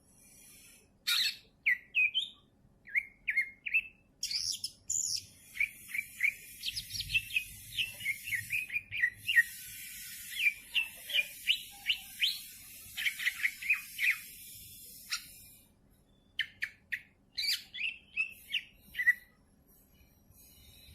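Green leafbird (cucak ijo) singing: rapid runs of varied chirps and whistled notes, densest through the middle, with a short pause before a last flurry of phrases. A steady high hiss sits under the middle of the song.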